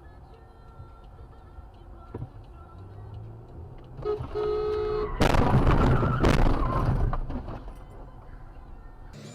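Low road and engine rumble, then a car horn sounds for about a second. Right after it comes a loud crash lasting about two seconds, typical of a vehicle collision.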